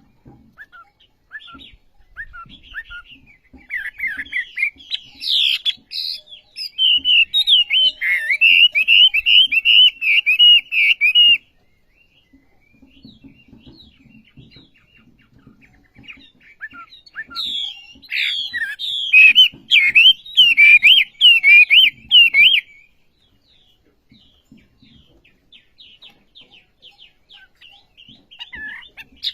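Wambi songbird singing gacor-style: scattered short chirps, then two long bouts of rapid, wavering warbled notes, with more chirps near the end.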